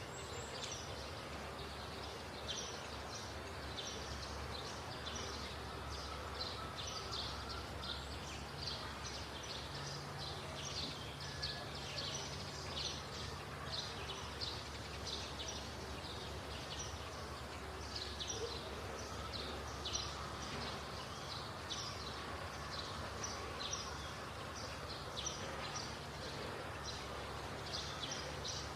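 Small birds chirping over and over in quick, irregular short notes, over a steady low hum.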